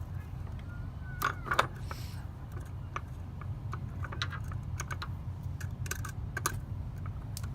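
Scattered small clicks and taps of hand work on a switch's wiring terminal, tightening its screw on the copper wire, with two louder clicks a little over a second in, over a steady low hum.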